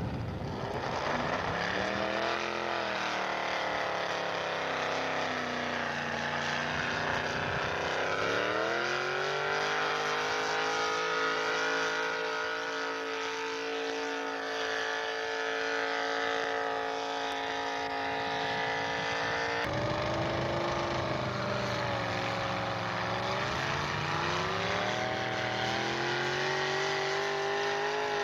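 Engine of a pulling truck under load, revving up and held at high revs for about ten seconds. It cuts off abruptly, and then an engine revs up again near the end.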